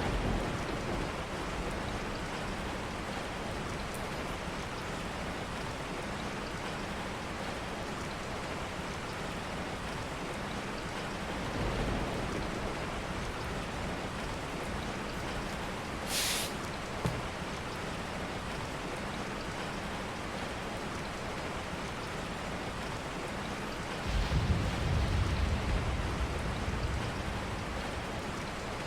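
Steady rain falling, with a low rumble about twelve seconds in and a longer, louder one near the end. A brief high hiss and a small click come around the middle.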